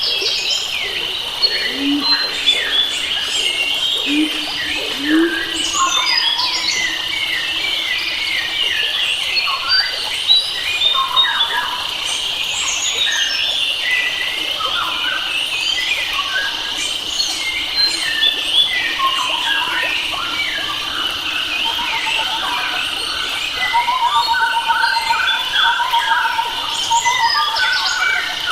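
A dense chorus of many wild birds chirping and whistling over one another, with a steady high insect-like drone under the calls. Near the end a run of rapid repeated notes comes in lower down.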